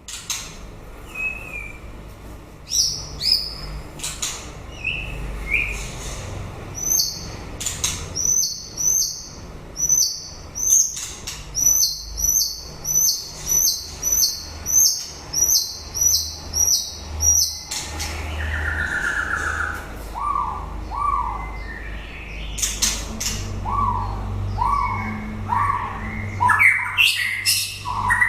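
White-rumped shama singing: a long run of the same high whistled note repeated about one and a half times a second, then a short buzzy trill and a series of lower swooping whistles, turning quicker near the end.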